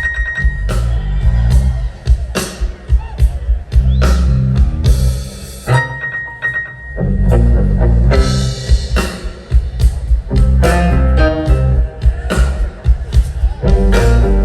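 Live band jamming a blues groove: electric guitar over bass and a drum kit, with steady drum hits.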